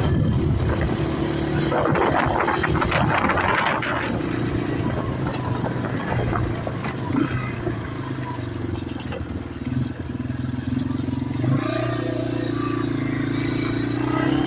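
Yamaha TW200's single-cylinder four-stroke engine running steadily under way, with wind buffeting the microphone a few seconds in. Its note drops about two-thirds of the way through, then starts to rise near the end as it accelerates.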